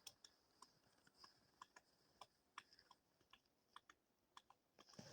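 Near silence with faint, irregular clicks and ticks, about a dozen over five seconds.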